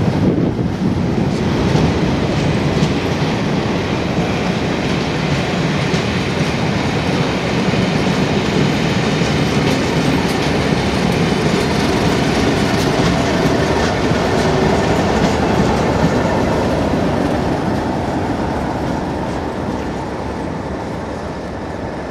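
Train of coaches passing close by with wheels clattering over the rail joints, followed by a Class 37 diesel locomotive at the rear going by about halfway through. The sound then fades away over the last few seconds as the train recedes.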